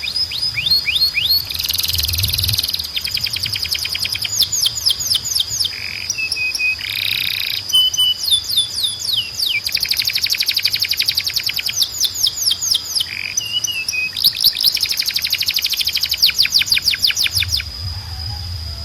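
Male canary singing: several phrases of fast trills made of rapidly repeated falling notes, broken by short pauses and a few brief held notes. A steady high whistle tone runs underneath.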